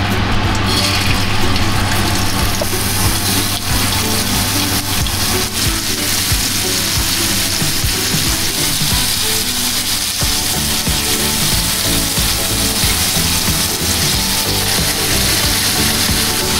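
Kefta patties of minced beef sizzling as they fry in hot oil in a pan, with background music over it.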